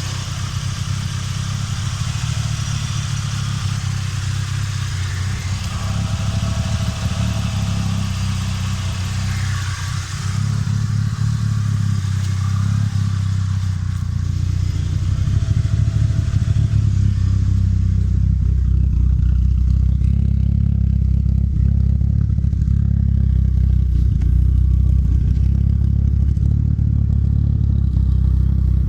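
Turbocharged 4G63 inline-four with aftermarket cams, breathing through a full 3-inch exhaust with a Vibrant muffler, running steadily at idle with a deep, low exhaust rumble. A brighter, clattery layer over it fades away a little past halfway, leaving mostly the low rumble.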